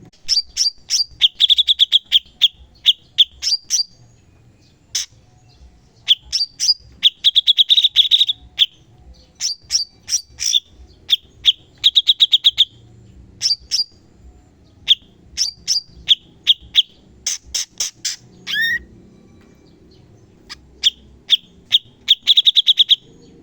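A cucak cungkok (blue-winged leafbird) singing in rapid volleys of sharp, clicking notes and fast high trills, in bursts with short pauses between them. Late on, one note slides steeply downward.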